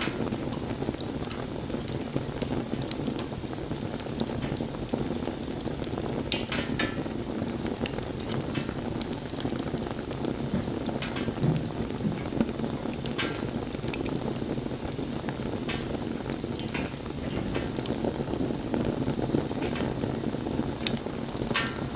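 Wood bonfire burning steadily, with scattered sharp crackles and pops from the burning wood.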